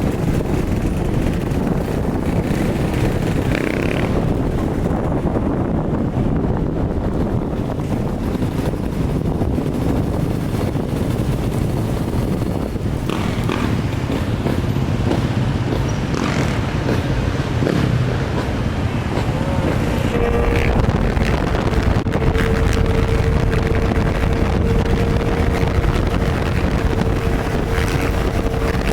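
A vehicle engine running under heavy wind buffeting on the microphone, as from a moving vehicle. About two thirds of the way through, a steady hum at one pitch joins in and holds.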